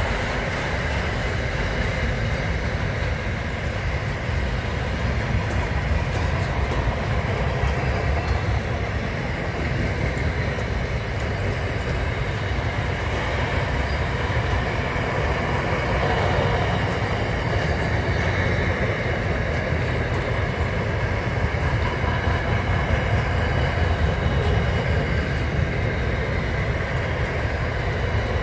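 Long freight train of boxcars and double-stacked container wagons rolling steadily past: a continuous rumble of wheels on rail, with a faint steady high tone running through it.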